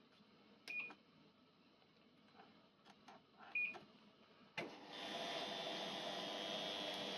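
Panasonic NP-TH2 countertop dishwasher being started: two short button beeps with soft clicks, then a click about four and a half seconds in as it starts running with a steady hissing noise and hum. This steady noise at start-up is the abnormal noise the owner is reporting.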